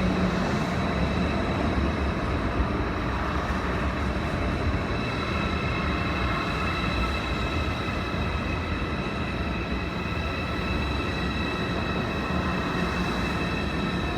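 A train running, a steady rumble with several high steady tones over it.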